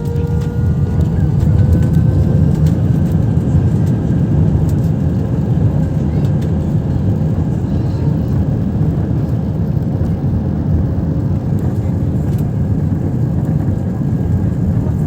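Airbus A319 jet engines at take-off power: a deep, steady rumble with a whine that rises slightly in the first couple of seconds as the engines spool up, then holds steady.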